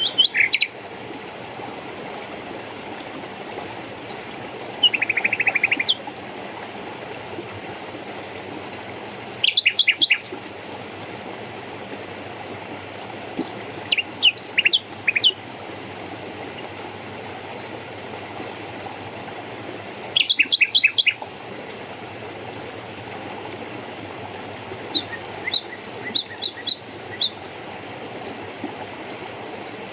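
Songbirds chirping in short bursts of quick, high repeated notes every few seconds, with fainter thin high notes in between, over a steady low rush of running water.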